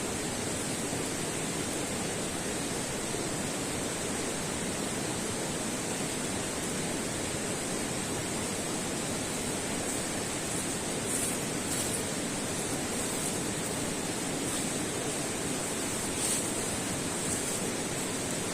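Steady rushing outdoor noise with a few faint ticks about two-thirds of the way through.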